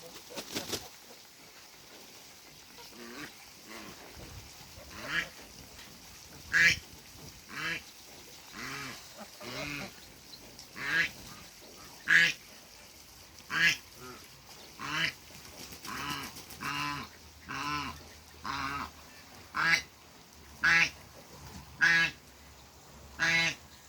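African geese honking: a long run of loud, separate calls about one a second, some much louder than others, after a brief rattle of clicks at the very start.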